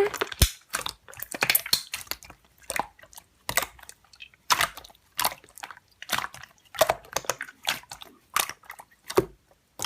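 Slime being squished and pressed by hand, making irregular clicks and pops.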